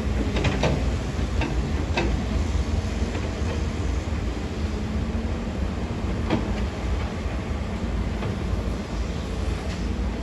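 Heavy diesel earthmoving machinery working: a deep steady engine rumble with a few sharp clanks scattered through it.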